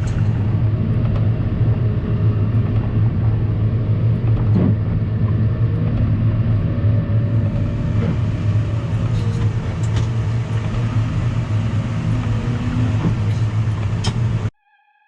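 New Holland T5 tractor's diesel engine running steadily with a low drone, a faint whine above it rising and falling a little. The sound cuts off abruptly just before the end.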